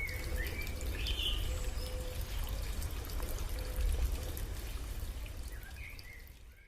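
Water flowing and trickling in a stream, with a few short bird chirps near the start and again near the end.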